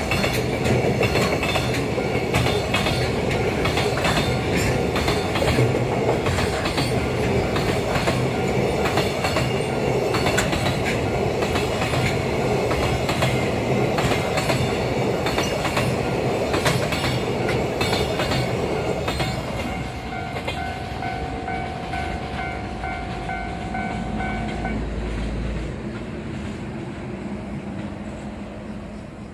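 Loaded JR Freight Koki container flatcars rumble past close by, their wheels clattering rhythmically over the rail joints. About two-thirds of the way through, the clatter drops away as the train recedes. A level-crossing warning bell then rings for about five seconds and stops, leaving a fading rumble.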